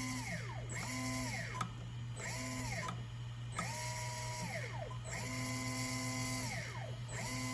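Hobbywing brushless motor of a 1/8 scale buggy spun up in short throttle blips on the bench: a whine that rises, holds steady, then falls, about six times, over a steady low hum. The blips check that the motor and newly programmed ESC run properly.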